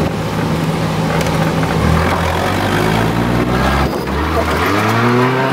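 Car engine running steadily, then revving up with a climbing pitch from about two seconds in; the pitch drops about four seconds in and climbs again near the end as the car accelerates.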